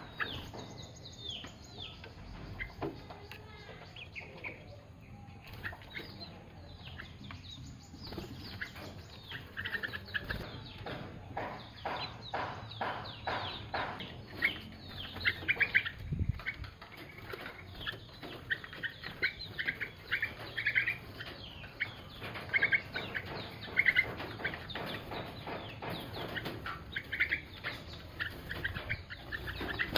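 Birds calling: many short chirps and clucking calls, with a fast run of calls about halfway in and bunches of repeated chirps after it.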